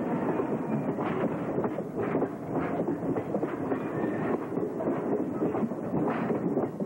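Algoma Central passenger train rolling past, its car wheels clicking steadily over the rail joints.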